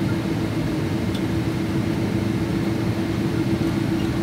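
Steady cabin noise of a Boeing 777-200ER airliner taxiing: a low rumble from the idling engines and cabin air, with a steady low hum running through it.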